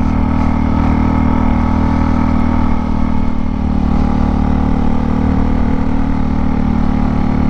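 Motorcycle engine running steadily under way, its pitch nearly constant with a slight dip about three seconds in.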